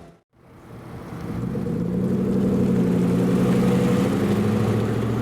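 A fire truck's engine running and accelerating, fading in after a moment of near silence and rising slightly in pitch before holding steady.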